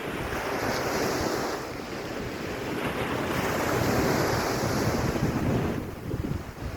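Surf washing onto a beach, with wind rumbling on the microphone; the noise swells and eases and dips briefly near the end.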